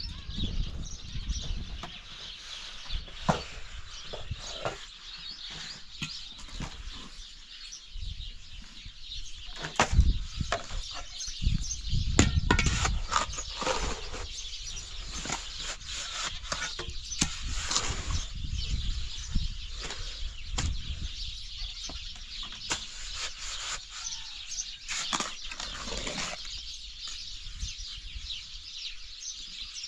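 Birds chirping continuously, with many scattered sharp knocks and rustles.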